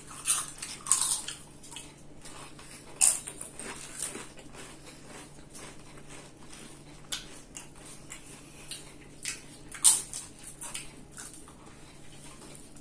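Close-miked crunching of tortilla chips being bitten and chewed, in irregular sharp crunches. The loudest crunches come in the first second or so, about three seconds in, and again about ten seconds in.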